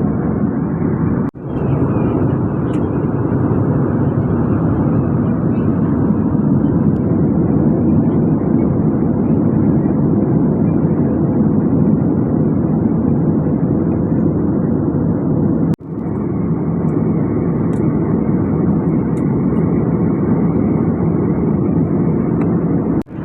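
Steady rush of jet airliner cabin noise at cruise, a deep even roar of engines and airflow. It cuts out for an instant twice.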